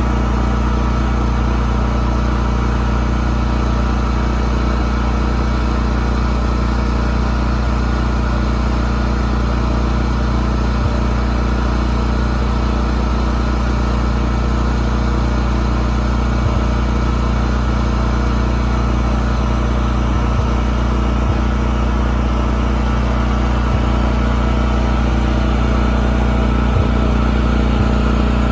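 Radio-controlled model boat's motor running at a steady, unchanging speed, with a constant hum.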